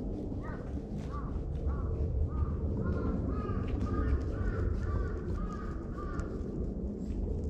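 A bird calling repeatedly in a long series of short, arched notes, about two a second, which stop about a second before the end, over a steady low rumble.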